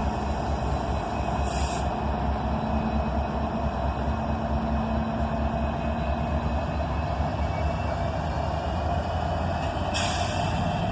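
Diesel-electric freight locomotives, an EMD SD70-series unit among them, working slowly under heavy load as a long freight train struggles to get moving. There is a steady low rumble, with a couple of brief hisses, one about a second and a half in and one near the end.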